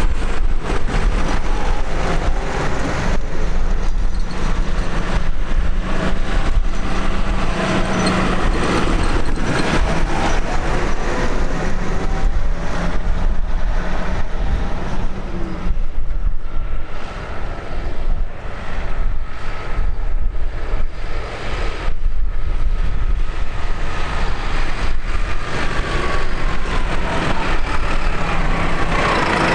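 Tractor engines running, a loud continuous heavy-engine sound that dips briefly a little past the middle.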